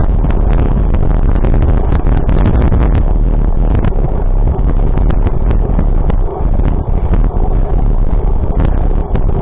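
Loud, steady low rumble with frequent short knocks and rattles.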